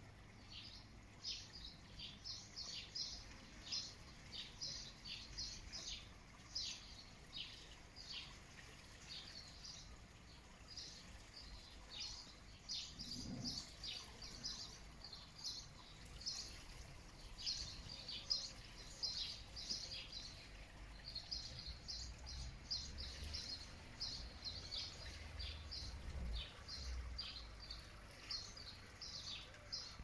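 Small songbirds chirping and singing, a steady stream of short, high notes, several a second.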